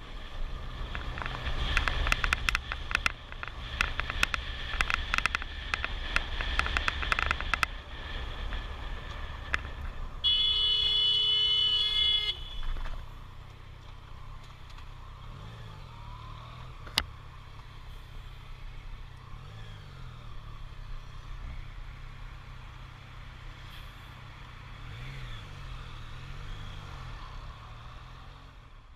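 Road-vehicle engine and road noise, with a busy run of clicks and knocks over the first several seconds. About ten seconds in, a steady pitched tone like a horn sounds for about two seconds. After it, a quieter engine hum rises and falls slightly in pitch.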